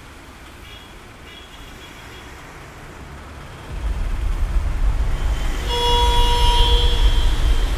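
Street traffic noise. Just under halfway through, a loud, deep vehicle engine rumble comes in and keeps going, and a vehicle horn sounds once for about a second near the end.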